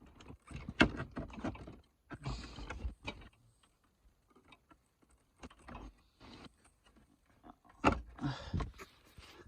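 Plastic interior trim around a Mustang's shifter boot and console being pried and lifted: irregular clicks, knocks and rustling scrapes, with sharp snaps about a second in and again near the end.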